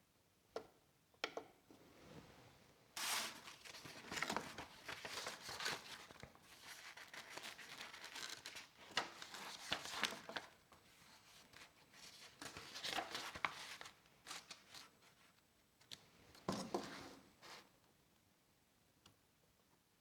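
Paper pages of an instruction booklet being leafed through and rustled, in a long stretch of dense crinkling with scattered sharper clicks, then one more short burst near the end.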